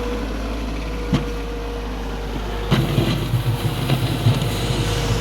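An engine idling steadily with a sharp knock about a second in. From about halfway, a snow shovel scrapes and thuds irregularly.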